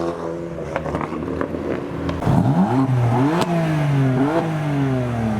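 Audi RS6 engine revving as it pulls out: two sharp rises in pitch about a second apart, each falling back, after a fading engine note at the start.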